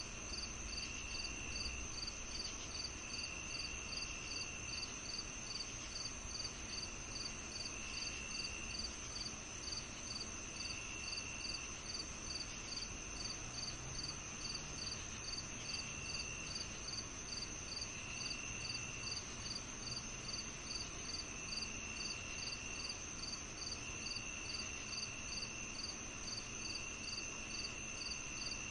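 Chorus of crickets and other insects at night: a steady high trill, a regular chirp about twice a second, and a lower trill that starts and stops every couple of seconds. A faint low rumble sits underneath.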